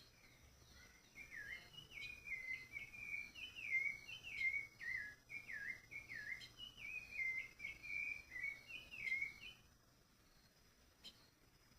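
A songbird singing a fast run of clear whistled notes, many of them dropping in pitch. The song starts about a second in and stops near the end.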